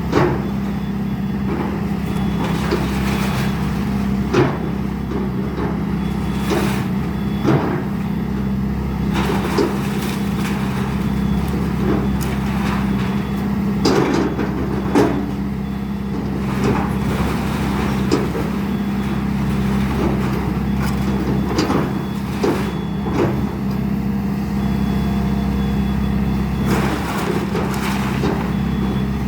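Excavator's diesel engine running steadily while it tears down a house, with irregular cracks, knocks and thumps of the structure breaking apart.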